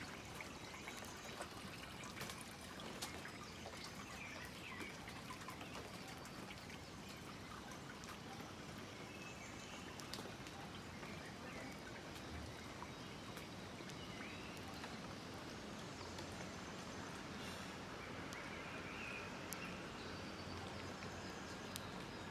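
Steady rain falling, with drips pattering on surfaces and a few birds chirping now and then. A faint low hum comes in about halfway through.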